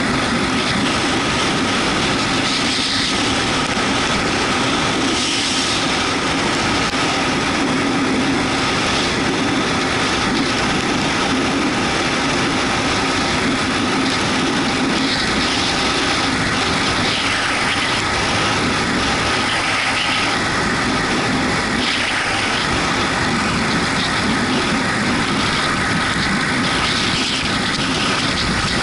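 Yamaha MT-125 motorcycle riding along, its 125 cc single-cylinder engine running steadily under a constant rush of wind and road noise.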